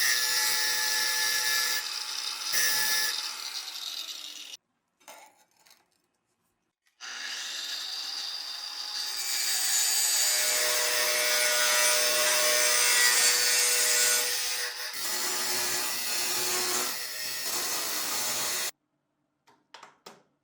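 A small power tool running and abrading a part in two stretches, with a steady motor whine under the rasping. It stops for about two seconds early on, then runs for about twelve seconds and cuts off suddenly near the end, followed by a few faint clicks.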